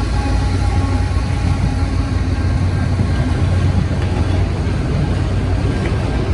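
Freight train passing close by: autorack cars rolling on the rails over a steady low rumble from its diesel locomotives.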